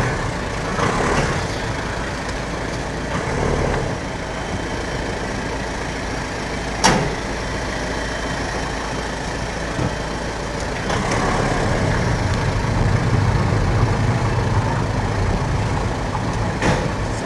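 Steady engine and road noise of a car driving slowly, heard from inside the cabin. A single sharp click comes about seven seconds in, and another near the end.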